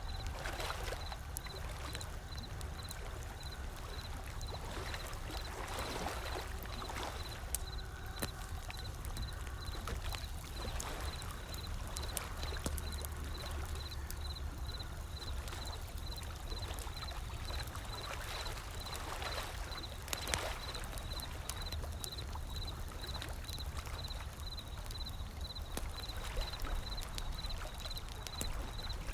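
Wood fire crackling with scattered sharp pops, over gentle ocean waves that swell and wash in every several seconds above a low steady rumble of surf.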